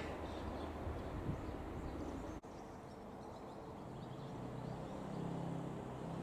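Rescue truck's diesel engine idling, a steady low drone that comes through more clearly in the second half.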